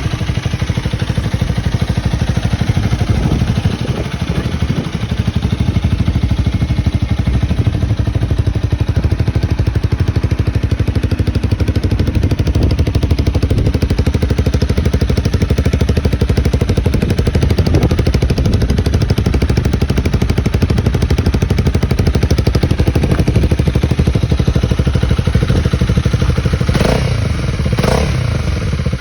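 Honda Rebel 250's single-cylinder engine running steadily through an aftermarket muffler. A few short knocks near the end.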